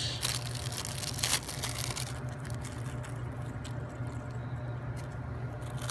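Light clicking and crackling of small objects being handled, busiest in the first two seconds with a sharper click about a second and a half in, over a steady low hum.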